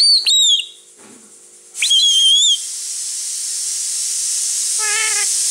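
Indian ring-necked parakeet giving loud, shrill whistles: two short ones at the start and a longer wavering one about two seconds in, followed by a steady hiss that builds and holds. A short meow-like call comes near the end.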